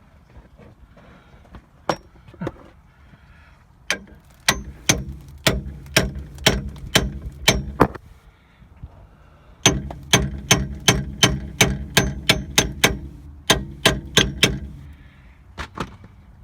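Hammer blows on the steel of a seized shock absorber fastening, ringing metal on metal. They come in two runs of about three blows a second, with a few single strikes before and after, to knock the stuck nut and pin loose.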